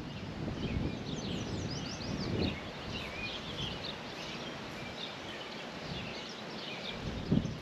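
Small birds chirping busily, many short high calls overlapping, over a steady outdoor hiss, with a few brief low rumbles.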